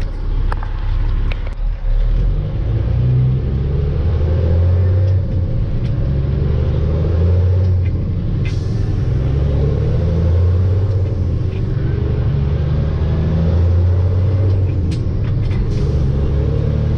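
Dump truck's diesel engine running under load as the truck pulls away, its pitch rising and dropping repeatedly as it goes through the gears, with a few short sharp clicks or hisses.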